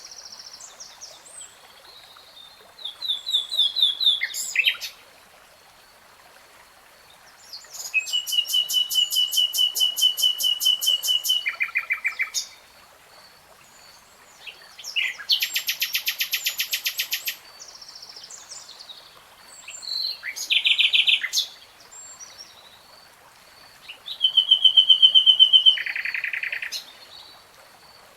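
A songbird singing in separate phrases of rapid repeated notes and trills, about five phrases with short pauses between them. A faint steady high tone runs underneath.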